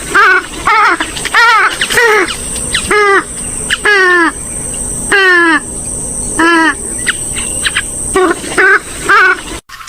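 Swamphen and moorhen calls: a fast run of loud, short calls, each rising and then falling in pitch, with a few longer falling calls in the middle. The sequence breaks off abruptly near the end, like an edited loop.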